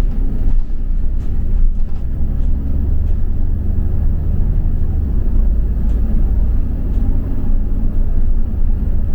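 Steady low rumble of a London double-decker bus on the move, heard from inside the bus: engine and road noise.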